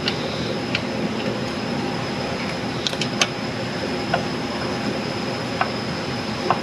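Wrench tightening a cylinder-head bolt on a 3.5 L V8 in the torque sequence: a few isolated sharp metallic clicks, spaced irregularly, over a steady background hum.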